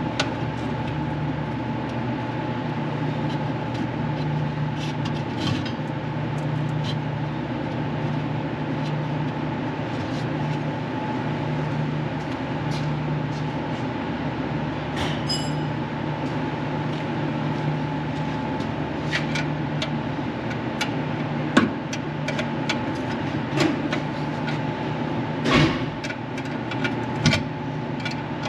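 Duramax turbo-diesel V8 idling steadily while warming up. Several sharp knocks come in the second half, loudest about two-thirds of the way through and again near the end.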